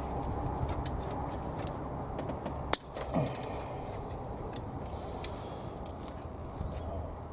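Hand tools clicking and clinking on metal engine parts while the timing-belt tensioner is loosened. One sharp click comes about three seconds in, followed by a few lighter clinks, over a steady low background hum.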